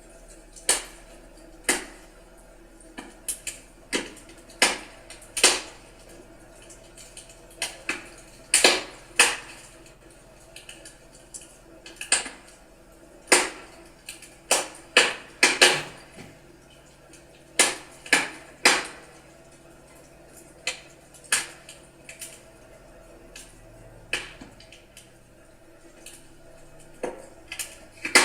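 Wood fire crackling in a fireplace: sharp pops of burning firewood at irregular intervals, roughly one a second, some louder than others, over a faint steady background.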